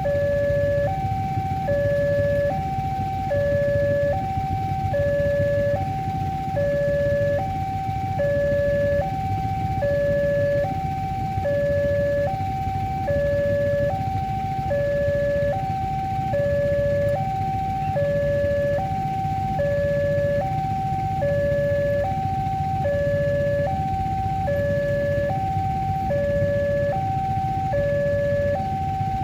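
Level-crossing warning alarm sounding continuously: an electronic two-tone signal alternating high and low, each tone lasting just under a second, over a steady low rumble.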